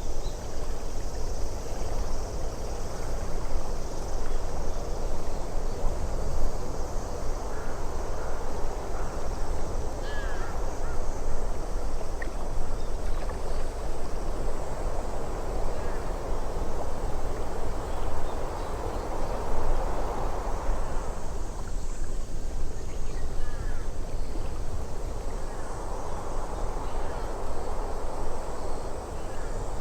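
Ambient nature soundscape: a steady rushing noise with a deep rumble beneath, swelling and easing every several seconds, with faint scattered bird calls.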